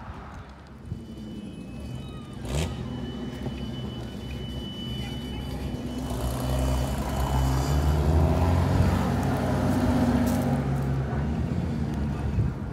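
A car engine running at low revs, growing louder from about six seconds in, with a brief knock about two and a half seconds in.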